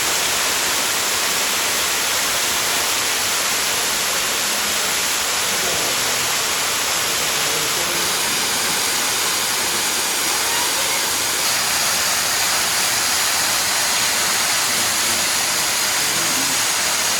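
Moore Cove Falls, a waterfall, making a steady rush of falling water.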